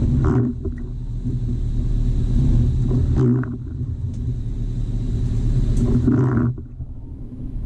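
Jeep Wrangler TJ's engine running with a steady low hum, with a swell of noise rising and falling about every three seconds.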